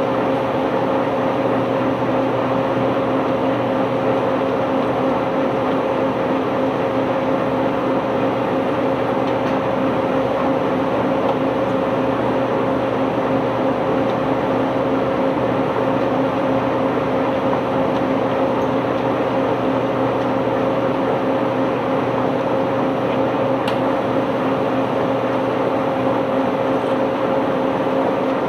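Heavy unloading machinery's engine running steadily, a constant drone with a steady hum and no clear knocks or clatter.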